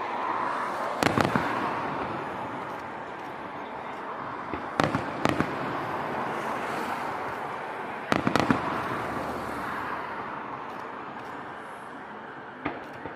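Fireworks going off: sharp bangs about a second in, twice around five seconds, a cluster around eight seconds and one near the end, over a steady hiss.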